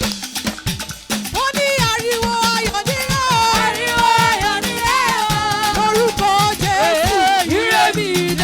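Church choir singing a lively praise song over a live band with drums and shaker percussion; the voices come in about a second in, over the beat.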